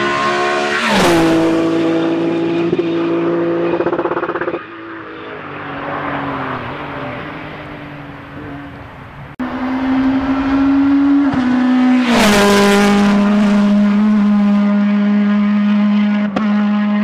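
Rally cars at full throttle passing close by, each engine note dropping sharply in pitch as the car goes past. There are two close passes, about a second in and again about twelve seconds in, with a quieter stretch of engine noise from further off in between.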